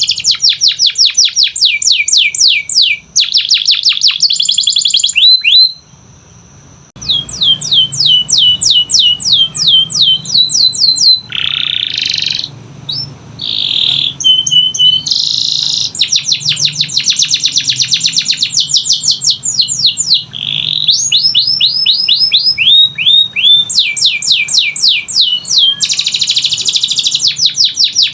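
Domestic canary singing a long, loud song made of fast runs of repeated high chirping notes. Phrase follows phrase with different speeds and buzzy trills, broken by a short pause about six seconds in.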